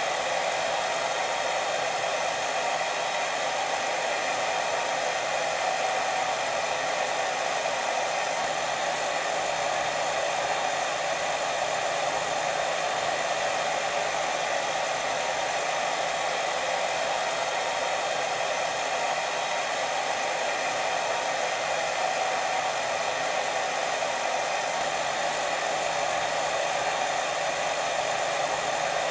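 Steady white noise for sleep, a continuous hiss with no pauses or swells, its weight in the middle and upper range and almost no bass.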